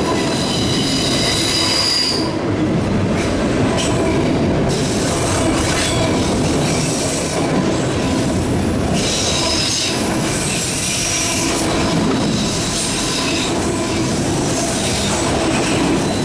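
Freight train of autorack cars rolling past close by: a steady loud rumble and clatter of steel wheels on the rails. High-pitched wheel squeal rises over it for the first two seconds and again about halfway through.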